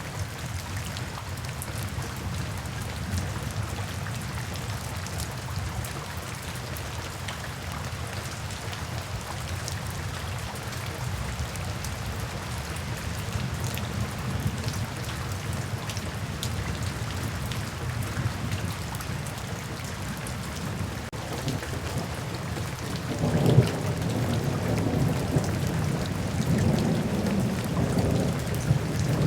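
Steady rain falling, a continuous hiss of drops. A deep rumble swells in over the last few seconds and grows louder.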